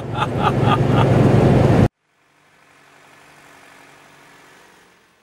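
Semi-truck's diesel engine heard inside the cab: a steady low drone with a quick run of short tones over it. About two seconds in it cuts off abruptly, leaving only a faint even hiss.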